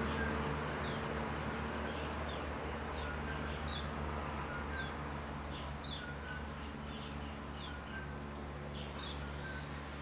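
Small birds chirping: many short, quick falling chirps, with a shorter, lower note repeating about once a second, over a steady low hum.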